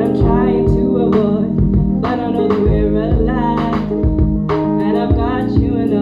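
Live song: a woman singing long phrases with wavering pitch over guitar accompaniment.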